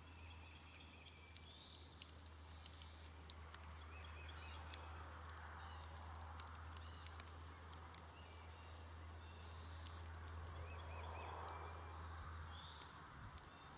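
Faint crackling and popping of a smoldering wood campfire, with birds chirping in the background. A steady low hum fades out near the end.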